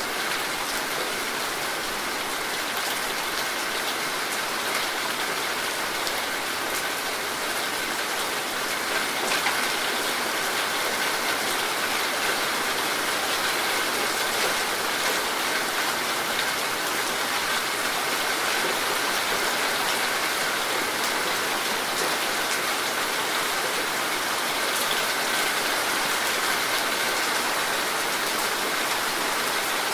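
Heavy rain falling steadily: a dense, even hiss of rain with many fine drop ticks.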